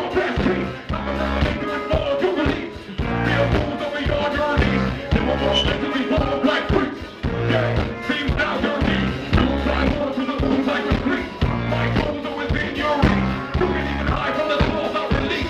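Live band playing through a club PA: drum kit keeping a steady beat under a heavy, moving bass line, with guitar and other instruments on top.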